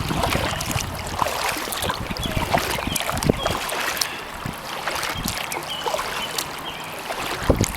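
Kayak paddle strokes splashing and dripping, over a steady trickle of water running over a pond floodgate. Wind rumbles on the microphone for the first few seconds.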